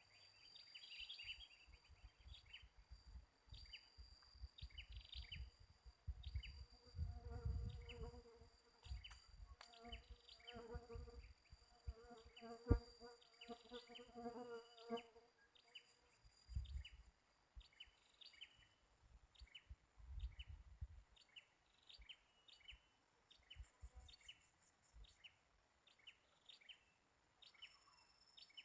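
A flying insect buzzing close by for several seconds in the middle, over short bird chirps that repeat throughout and a thin steady high whine. Faint overall, with some low rumbling.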